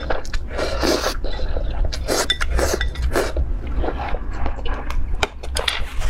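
Close-miked eating sounds: utensils clinking and scraping against a dish in a quick, irregular run of sharp clicks, mixed with short noisy mouth sounds.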